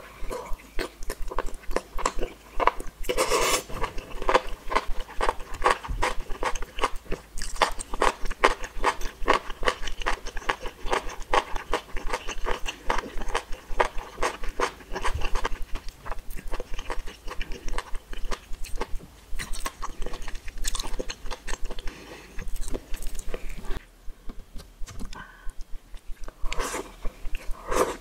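Close-miked mouth chewing a mouthful of enoki mushrooms and spicy ramen noodles: fast, crunchy clicking from the teeth and tongue, with a short pause near the end.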